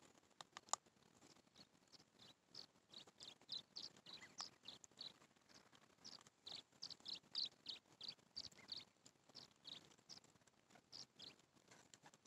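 Faint, quick high chirps of small birds, short notes repeated irregularly and often several in a row. A few sharp clicks come about half a second in.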